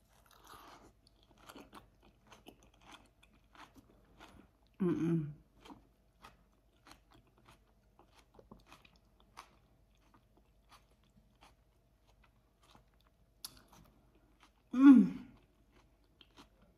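A woman chewing a big forkful of ranch-dressed salad close to the microphone, with soft wet mouth clicks throughout. Two short closed-mouth hums of enjoyment come about five seconds in and near the end; the second is the loudest sound.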